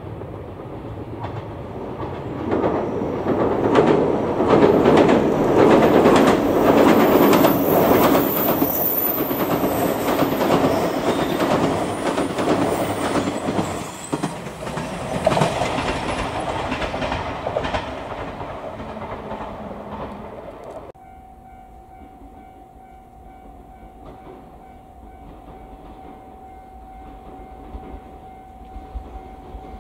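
JR 381 series limited-express electric train passing close by, its wheels clattering in a fast repeating rhythm over the rail joints; the sound swells to its loudest a few seconds in and then slowly fades. About two-thirds of the way through it cuts sharply to a much quieter steady hum with a thin steady tone.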